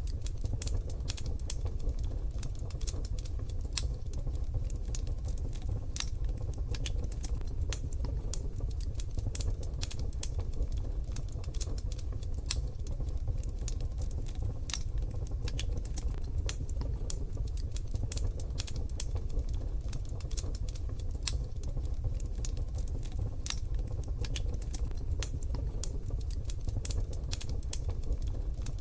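Wood fire in a wood-burning stove crackling, with many small irregular pops and snaps over a steady low rumble.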